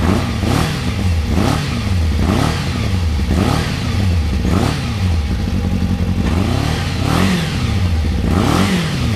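Kawasaki ZZR600's inline four-cylinder engine at idle, revved in quick throttle blips about once a second, each rev rising and dropping straight back. It exhausts through a late-model Devil aftermarket silencer.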